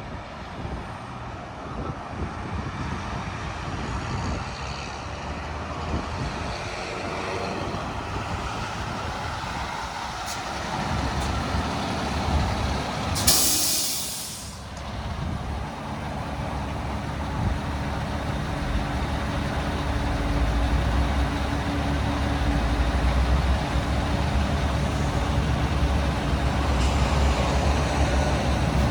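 Freightliner 114SD roll-off truck's diesel engine running, with a short, loud hiss of released air about halfway through. The engine gets louder and steadier in the second half.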